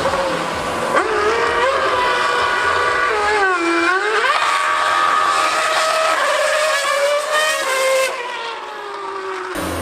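A 2013 Formula 1 car's V8 engine screaming at high revs. Its pitch climbs in steps through gear changes, dips sharply and climbs again about halfway through, then falls away near the end.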